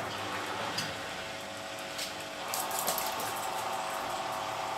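Beko WTB740E1W washing machine draining water before the spin, its drain pump running with a steady, a little noisy hum, with a few light clicks about two and a half seconds in.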